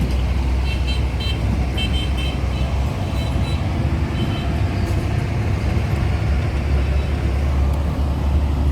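Steady low drone of a running vehicle engine amid traffic, with several short high-pitched horn toots in the first few seconds.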